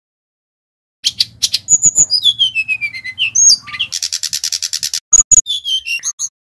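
Sikatan rimba dada coklat (brown-chested jungle flycatcher) singing a rapid, varied song that starts about a second in: sharp high notes, a whistled run falling in pitch, a fast buzzy trill, then more short notes.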